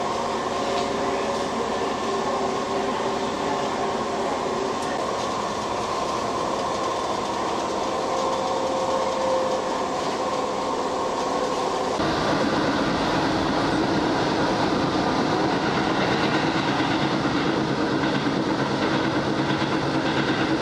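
Inside a Keisei electric commuter train car: a steady hum with held tones, then, about twelve seconds in, a sudden change to louder, rougher running noise as the train travels.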